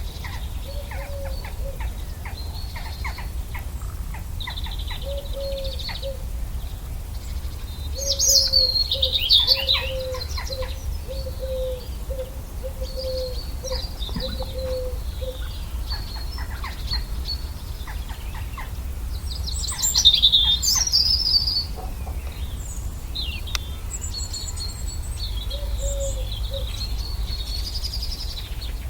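Birds singing and chirping in high twitters, with louder bursts of song about 8 and 20 seconds in, and a lower note repeated about twice a second for several seconds. A steady low rumble runs underneath.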